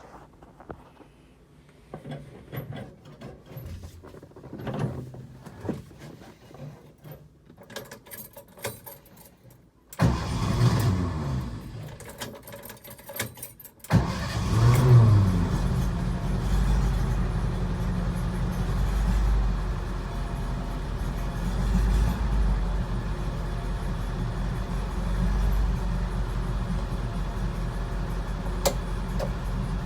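Cold start of a 1966 Volkswagen's air-cooled flat-four: a few seconds of small clicks and rattles, then the starter cranks for about four seconds. The engine catches about fourteen seconds in, surges briefly, then settles into a steady idle.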